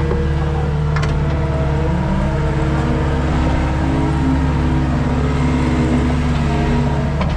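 Skid steer engine running steadily at working speed, its pitch wavering slightly with load. A short knock comes about a second in and another near the end.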